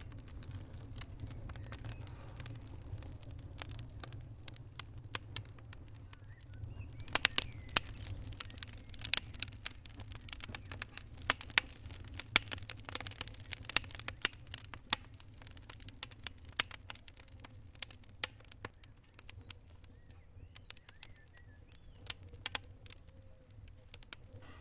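Wood fire crackling and popping, with a dense run of sharp pops in the middle and sparser crackles toward the end, over a steady low rumble.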